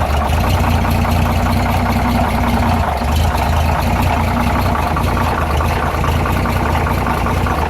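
Dodge WC52 weapons carrier's flathead six-cylinder engine running steadily, apparently at idle.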